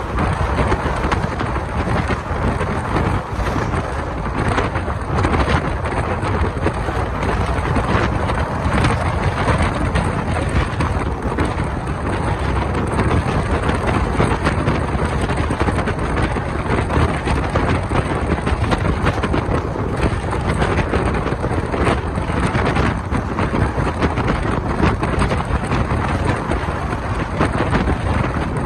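Wind rushing over a microphone held out of a moving Indian Railways passenger coach, over the steady running noise of the train on the track.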